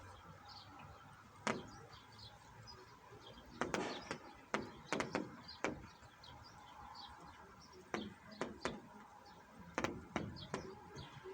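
Raindrops dripping irregularly onto a hard surface close by, about ten sharp taps, over a faint rain hiss, with small birds chirping in the background.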